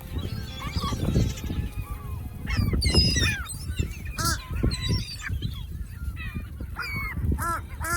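Birds calling noisily as they are fed, giving harsh, honking calls one after another, with a quick run of repeated calls near the end.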